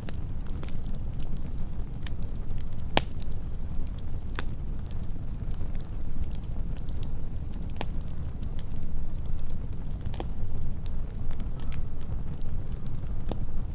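Campfire burning with a steady low rumble and occasional sharp crackles and pops, about five in all. A cricket chirps about once a second over it, a little faster near the end.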